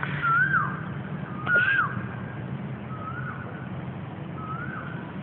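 A bird repeating a short whistled call that rises and then falls, four times about a second and a half apart, the later calls fainter, over a steady low hum.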